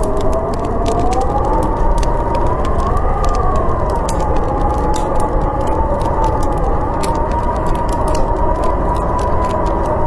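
Storm wind howling, a wavering whistle that slowly rises and falls in pitch over a steady rushing noise, with a wood fire crackling in scattered sharp pops.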